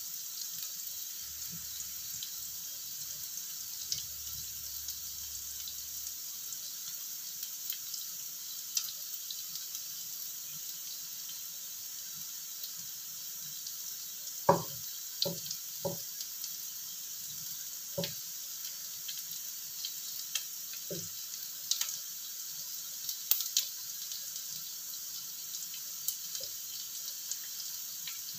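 Tempe cubes and small anchovies frying in oil in a wok: a steady high sizzle. About halfway through, a wooden spatula knocks against the pan a handful of times.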